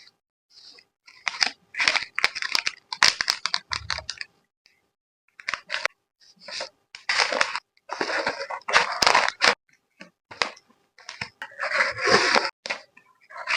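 Hands packing an order: plastic sleeves and packing film crinkling and rustling in short bursts, with sharp clicks and tearing between them.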